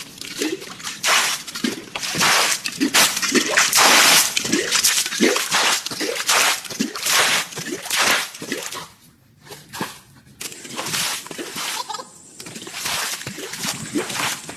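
A run of sharp knocks and cracks, one or two a second, with a brief lull about nine seconds in.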